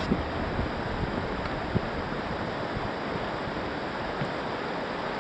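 Steady rushing of whitewater rapids, an even noise with no break or change.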